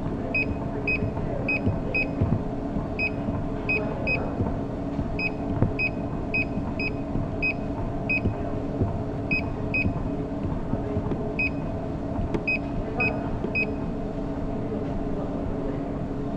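Treadmill control panel beeping about two dozen times in quick runs of short, same-pitched beeps, as when the speed buttons are pressed repeatedly; the beeps stop about 14 seconds in. Under them run a steady mechanical hum and the irregular low thuds of running footfalls on the belt.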